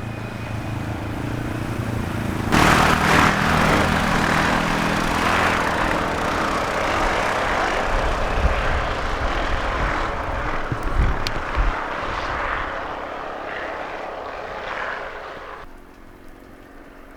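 Car driving, heard from inside the cabin: a low engine drone, with a loud steady rushing noise that starts suddenly a couple of seconds in and cuts off abruptly near the end, and a few low thumps along the way.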